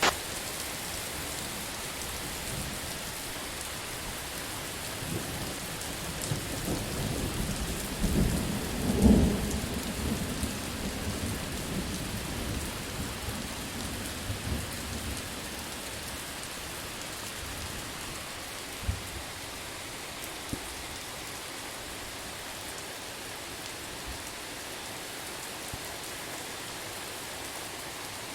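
Steady rain with a roll of thunder: the rumble builds about five seconds in, peaks sharply about nine seconds in and rolls away over the next several seconds, leaving the rain alone.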